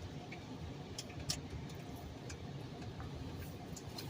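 Car wash tunnel running: a steady low rumble with scattered sharp ticks and taps, one louder tap about a second in.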